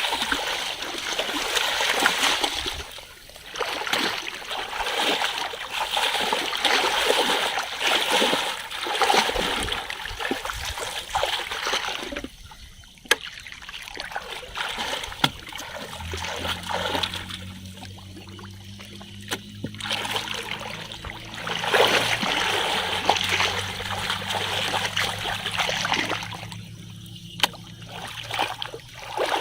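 Shallow water splashing and sloshing in bouts, with short lulls and a few sharp knocks. A steady low hum joins about halfway through.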